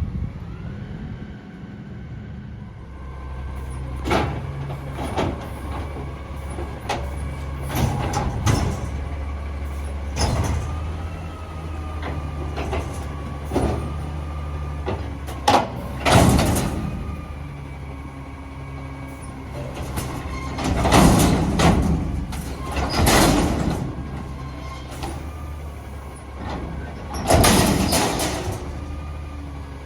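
Garbage truck at work: the engine runs steadily with a faint whine from the pump, while about ten loud bursts of hiss and clatter come and go, the strongest ones in the second half.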